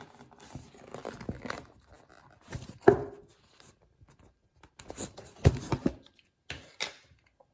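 Bird-food packaging being handled and opened: rustling, tearing and scraping in four uneven bursts, with sharp knocks among them, the loudest about three seconds in and again about halfway.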